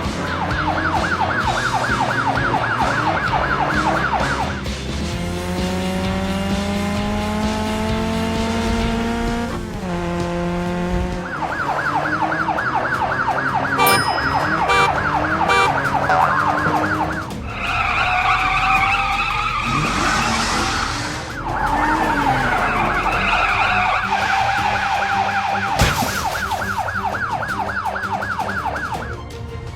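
Cartoon emergency-vehicle siren warbling fast between two pitches, stopping for a while twice. Between its runs comes a slowly rising whine, like an engine winding up, and later a different tone. Background music plays underneath throughout.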